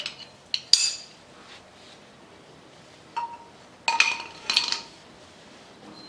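Small metal parts and tools clinking and clattering as they are handled and set down on a workbench. Several sharp clinks, the loudest under a second in, another with a brief ring about three seconds in, and a cluster around four seconds.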